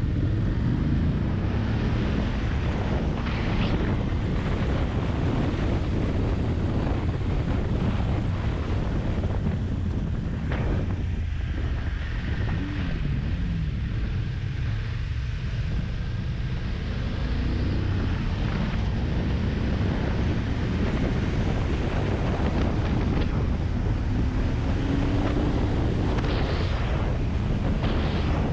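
Wind buffeting the microphone of a moving motorcycle, with the engine running underneath; the engine note climbs a little near the end.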